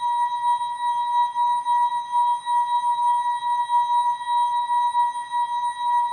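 ASKfm notification sound effect, slowed down and time-stretched: one unbroken steady tone with fainter overtones above it, its loudness wavering quickly and unevenly, like a drawn-out electronic alarm tone.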